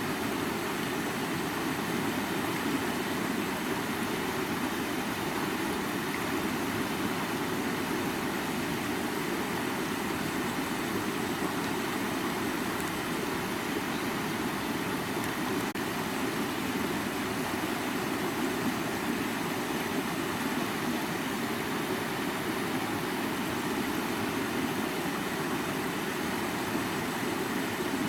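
River water flowing: a steady, unbroken rush with its weight low down.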